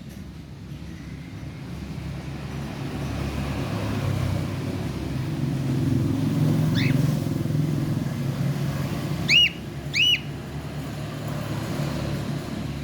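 A cockatiel giving short, sharp chirps: one faint in the middle and two loud ones close together near the end. Under them runs the low rumble of a passing motor vehicle, swelling in the middle and easing off.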